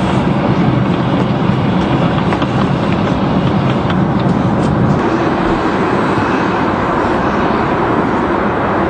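Steady roar of a jet airliner's cabin in flight, the engine and airflow noise running evenly. It eases slightly about five seconds in, and a few faint ticks sound over it.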